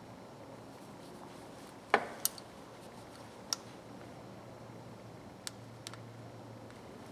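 A few sharp clicks and taps of small metal parts and tools being handled and set down on a workbench, the loudest about two seconds in, over a faint steady hum.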